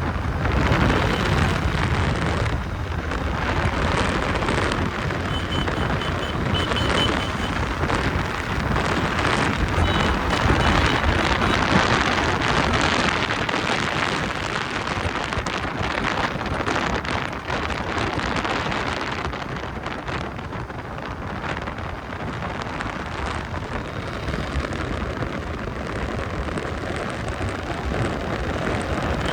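Motorcycle riding through city traffic: wind rushing over the microphone mixed with engine, tyre and traffic noise, rising and falling with speed. A few short high beeps come about five to seven seconds in and again near ten seconds.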